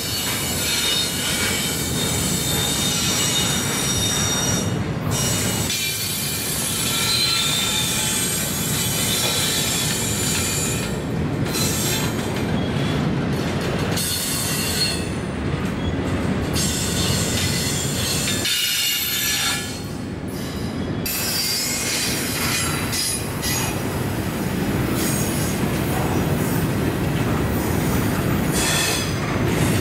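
Freight train cars rolling past close by: a steady heavy rumble of steel wheels on rail with high, ringing wheel squeal over it.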